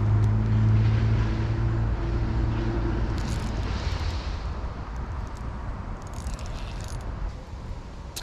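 A distant engine's steady drone, loudest at first and fading away over the first four seconds, over a low rumble.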